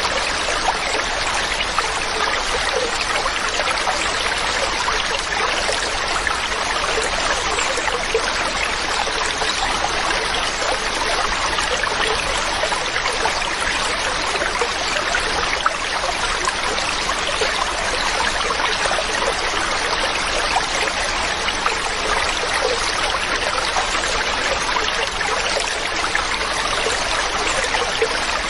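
Mountain stream running steadily over rocks, a continuous rushing and trickling of water.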